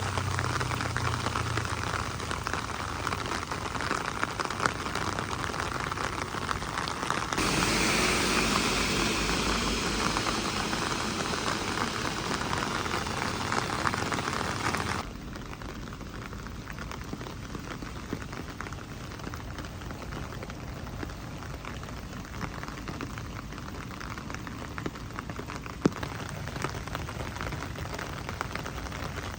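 Steady rain falling. The sound shifts abruptly twice: louder and brighter about a quarter of the way in, then quieter about halfway through. There is a single sharp tick near the end.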